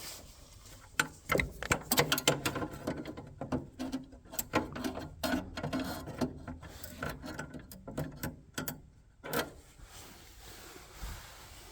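Irregular clicks, knocks and short rattles of tools and small metal parts being handled while a furnace is worked on, ending in one louder knock.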